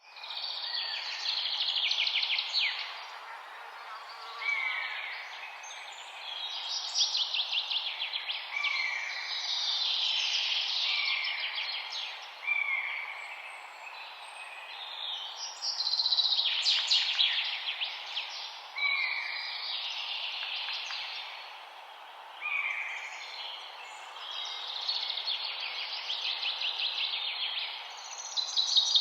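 Songbirds singing: phrases of fast, high trills and chirps every couple of seconds, with a short repeated call recurring between them, over a steady background hiss.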